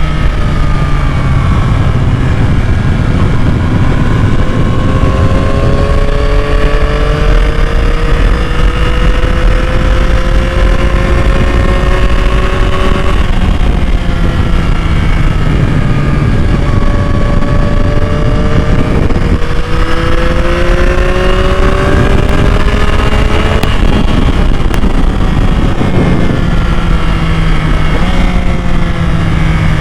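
2021 Yamaha MT-09's 890 cc inline three-cylinder engine running under way, its pitch climbing slowly and falling back several times, over a steady low rush of wind noise.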